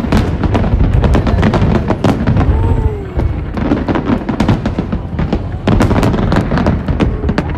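Large aerial fireworks display: a rapid, dense run of bangs and crackles over a continuous low rumble.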